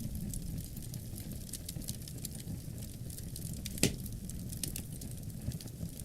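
Wood fire crackling in a fireplace, with scattered small snaps and one louder pop about four seconds in, over a low rumble of wind.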